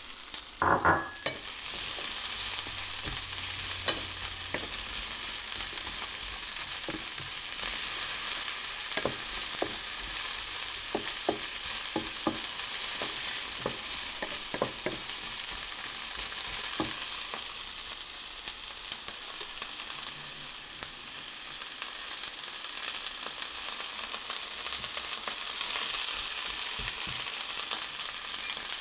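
Fajita ingredients sizzling steadily in a hot frying pan, with scattered clicks and scrapes of a utensil stirring them. A louder clatter comes about a second in.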